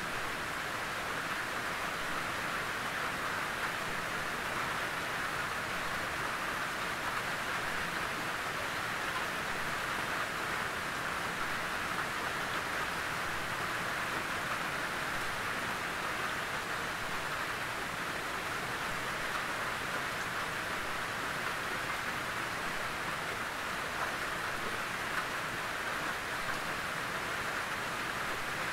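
Steady rain falling on a tin roof: an even, continuous patter-hiss with no gusts or thunder claps.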